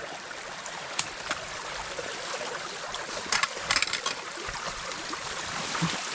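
Creek water rushing steadily past a debris clog of branches and leaves as it is cleared. A couple of sharp clicks come about a second in, and a brief cluster of crackles comes about three and a half seconds in.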